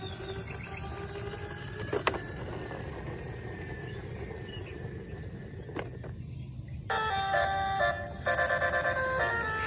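Toy vehicle play: a rustling, noisy stretch with two sharp clicks, then about seven seconds in a battery-powered toy's electronic beeping jingle starts and plays on.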